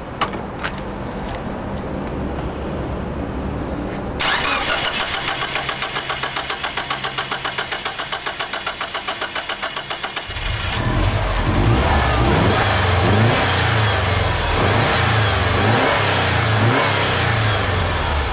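Subaru car engine cranked by its starter, a rapid even pulsing for about six seconds, then it catches about ten seconds in and runs with uneven revs. The intake manifold is wet with upper engine cleaner.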